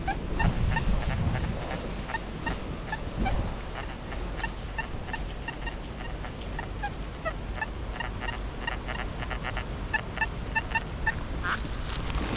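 XP Deus metal detector sounding a rapid, choppy string of short beeps, high and low tones mixed, as the coil sweeps over a target. The signal is of the kind the detectorist calls junky, a possible bottle cap. Wind rumbles on the microphone underneath.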